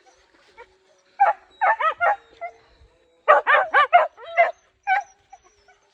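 Hunting dogs giving short, high yelping barks in quick volleys, one burst about a second in and a longer run from about three seconds in.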